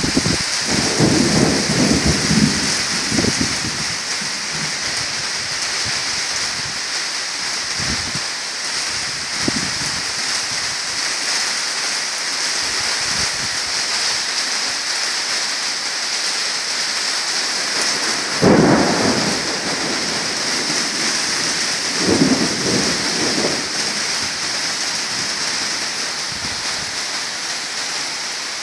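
Heavy rain falling steadily in a severe thunderstorm. Thunder rumbles in the first few seconds, a sudden louder clap comes about two-thirds of the way through, and another rumble follows a few seconds later.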